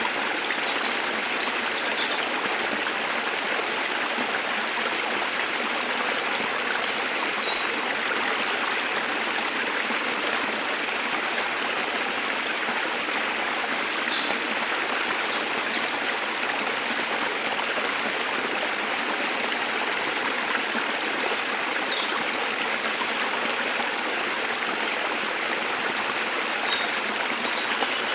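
Waterfall: a steady rush of falling water, with a few faint bird chirps here and there above it.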